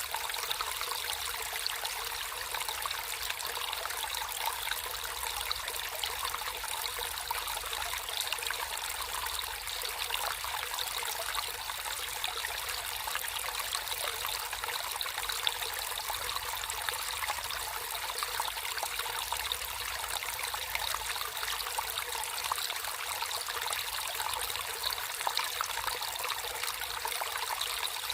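Water trickling and flowing in a natural stream, a steady, even rush with fine splashing.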